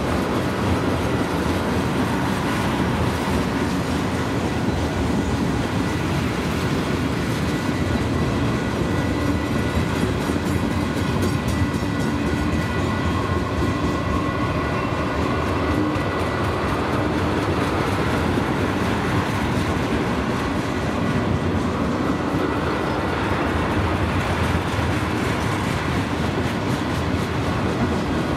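A string of freight tank cars rolling steadily past on jointed rail. The noise is the wheels on the rails, with clickety-clack over the rail joints.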